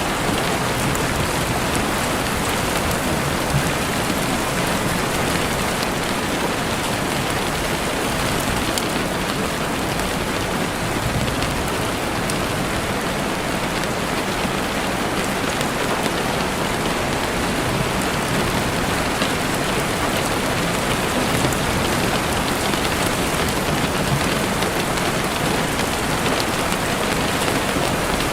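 Steady rain falling through trees and pattering on surfaces, with faint crackles from a campfire scattered through it.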